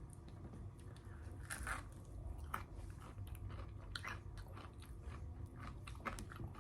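Close-miked chewing of food, with scattered small crunchy clicks and crackles.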